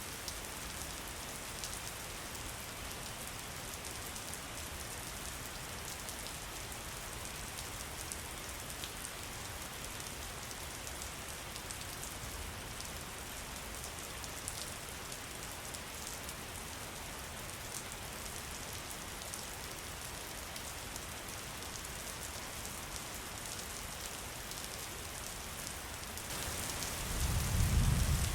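Steady rain falling, with scattered ticks of single drops. Near the end a low rumble swells for about two seconds, the loudest part.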